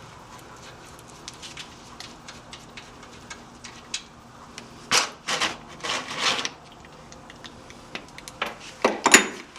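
Hands and tools working on a minibike engine: scattered light clicks and taps, with a few louder scraping, knocking handling noises about five to six and a half seconds in and again near the end.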